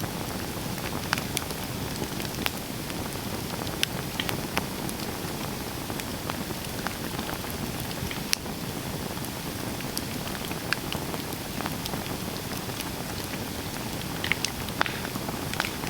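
Campfire burning: a steady low rush from the flames with scattered sharp crackles and pops, several of them close together near the end.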